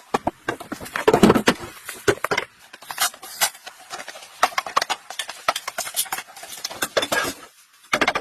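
Irregular clicking and knocking, with a quick clatter of louder knocks about a second in.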